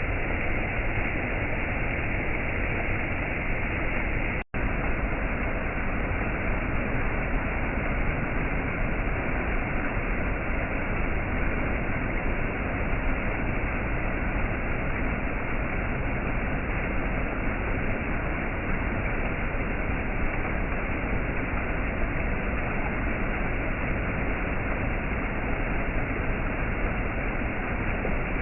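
Waterfall rushing in a steady, unbroken roar of falling water, cutting out for a split second about four and a half seconds in.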